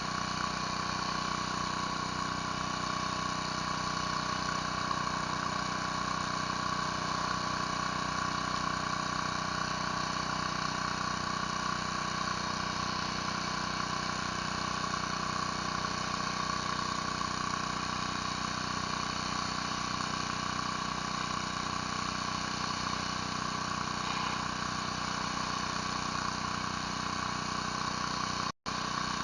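Pressure washer running steadily, its engine-driven pump and surface cleaner spraying on concrete without change, cutting out for a split second near the end.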